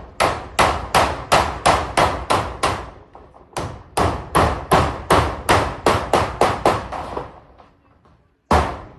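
Hammer driving nails into corrugated zinc roofing sheets in quick, steady strokes, about three a second. There are two runs of about nine blows with a short pause between them, and a fresh run starts near the end.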